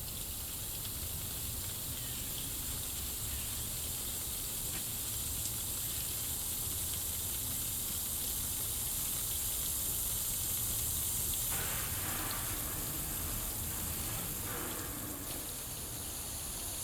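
Steady outdoor hiss with a low rumble that swells slightly toward the middle and eases off again.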